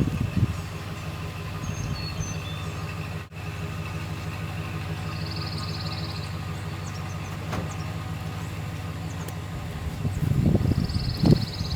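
A vehicle engine running steadily at a constant pitch, with a few louder knocks and rattles near the end.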